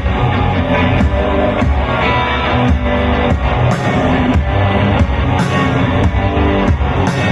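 Indie rock band playing an instrumental passage between sung verses: guitar and bass over a steady drum beat.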